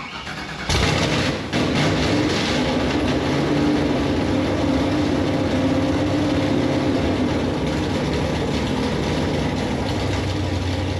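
Camaro race car's supercharged engine cranking briefly, then catching and running loud and steady at a fast idle, freshly fitted with new cylinder heads and cam. The pitch settles a little lower near the end.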